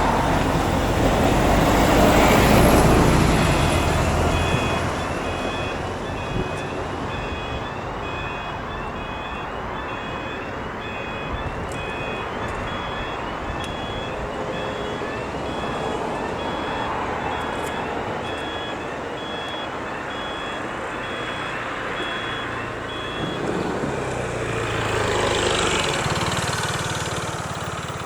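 Level crossing warning alarm sounding a repeating high two-tone electronic beep, starting a few seconds in and stopping near the end, as road vehicles pass over the crossing. The beeps come quickly at first and then spread out to about one a second. The loudest moment is a vehicle passing about two seconds in, and another passes near the end.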